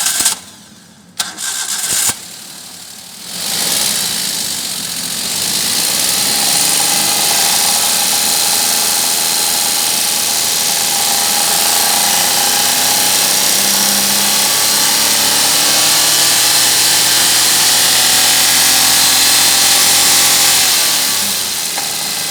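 Maruti Suzuki Alto 800's small three-cylinder petrol engine being cranked in two short bursts, then catching about three and a half seconds in. It runs loudly with its speed slowly climbing, then falls back toward idle near the end.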